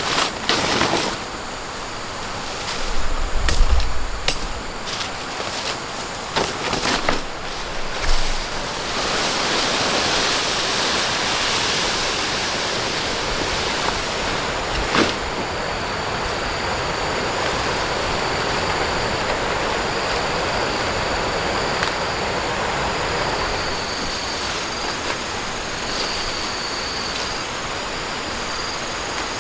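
Steady rushing noise of water, with several knocks and low thumps in the first few seconds. From about halfway through, a faint high steady tone comes and goes.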